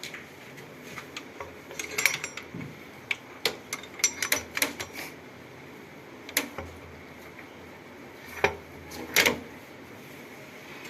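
Metal parts and tools clinking and tapping now and then while a tractor gearbox is worked on by hand. There are scattered sharp clicks in small clusters, with quieter gaps between them.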